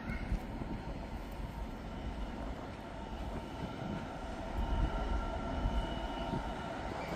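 A train moving through the station: a steady rumble of wheels on the rails, with a faint high whine held through it.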